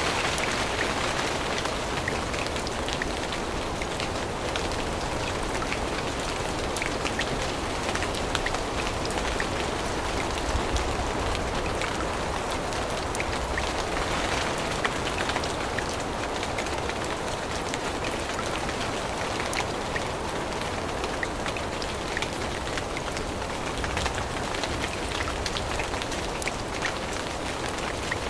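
Steady rain falling through a forest, an even hiss of rain dotted with many small sharp drop hits.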